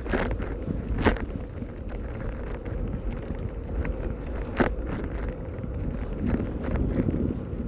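Wind buffeting the microphone during a bicycle ride: a steady low rumble, broken by a few sharp knocks, one just after the start, one about a second in and one just past halfway.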